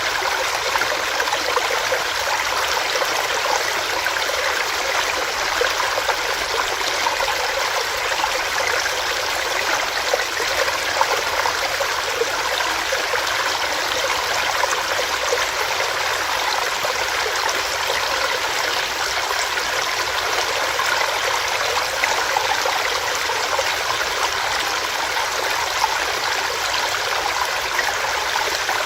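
Small stream running over rocks: a steady rush of water with fine splashing and gurgling.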